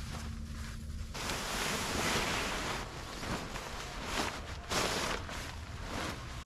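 Wind rushing through the forest, rising about a second in and surging in gusts.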